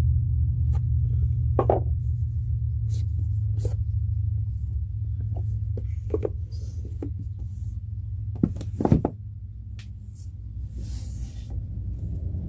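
A deck of tarot cards being shuffled and handled: scattered short taps and card slaps, with two louder knocks about nine seconds in, over a steady low hum.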